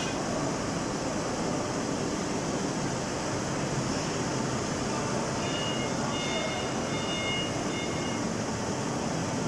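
Steady mechanical running noise of industrial machinery, with faint intermittent high whining tones for a couple of seconds in the second half.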